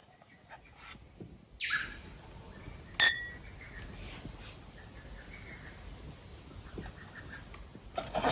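A sharp clink with a brief ringing tone about three seconds in, like a cup or utensil knocked against tableware, with a few small clicks near the end. A short falling sweep comes a little before the clink.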